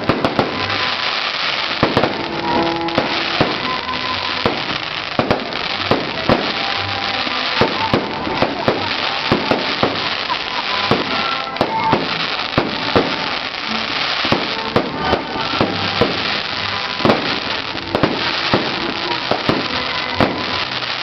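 Fireworks display: a continuous barrage of sharp bangs, several a second at irregular intervals, over steady crackling.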